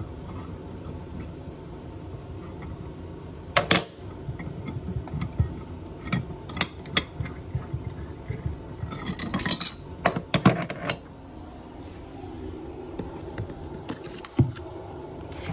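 Metal hand tools clinking and scraping as they are handled: one sharp clink about four seconds in and a cluster of clinks around nine to eleven seconds in.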